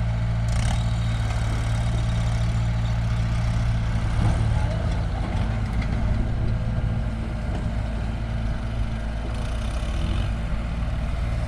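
Heavy diesel machinery engine running steadily, with a brief rise in level about four seconds in.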